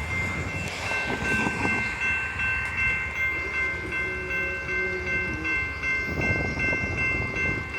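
Railroad grade-crossing bell ringing steadily and rapidly as a Norfolk Southern freight train approaches, with the train's horn sounding faintly in the middle.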